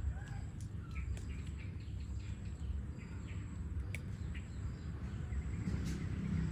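Outdoor background noise: a steady low rumble with faint, short high chirps and a few sharp clicks.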